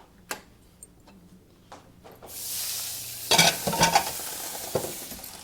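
Food sizzling in a hot frying pan, the sizzle starting suddenly about two seconds in and slowly dying down, with a few clatters of a utensil against the pan.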